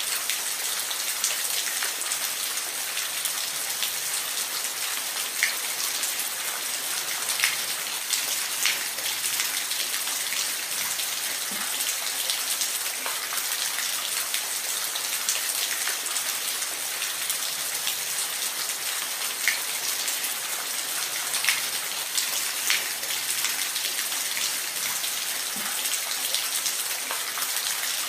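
Steady hiss of falling water from a waterfall, with scattered sharp drops and splashes standing out now and then.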